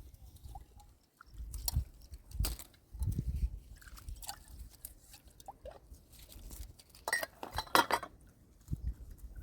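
Intermittent clinks, clicks and crunching, with a quick cluster of clicks near the end and low thumps in between.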